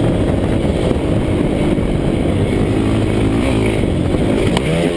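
Honda CRF dirt bike's four-stroke engine running at speed under steady throttle, with wind rush. Near the end the revs dip and rise again.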